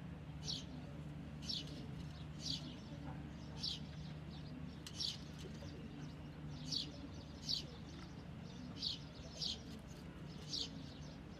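A small bird chirping, repeating a short, high call roughly once a second, over a steady low hum.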